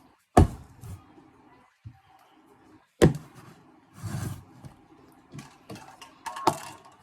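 Kitchen clatter: several sharp knocks of items and containers being set down and handled on a counter while a shake is prepared. The loudest knocks come near the start and about three seconds in, with another near the end.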